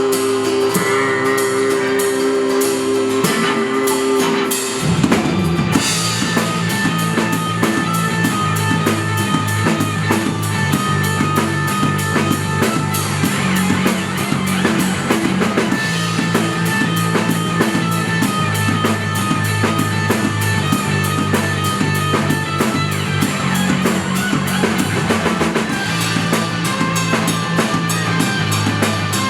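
Live rock band playing: guitar notes ring out on their own at first, then drums and bass come in with a crash about five seconds in, and the full band carries on with a steady beat.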